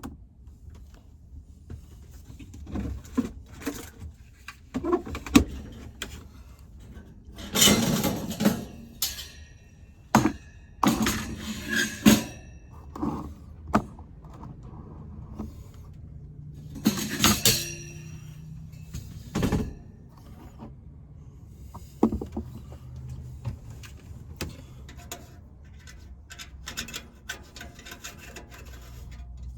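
Handling noises: irregular knocks, clicks and short scraping rubs of objects being moved about, over a low steady hum.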